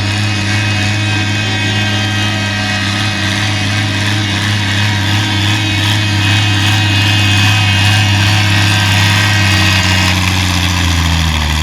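Pulling tractor's engine running steadily, dipping slightly in pitch near the end.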